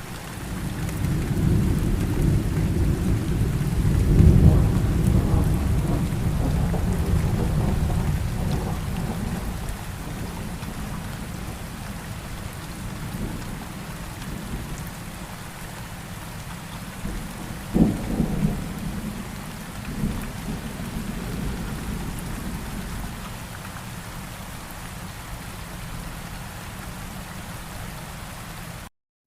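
Steady rain with rolling thunder: a deep rumble swells about four seconds in and fades away over several seconds, then a sharper thunderclap comes a little past halfway with a couple of smaller cracks after it. The sound cuts out briefly just before the end.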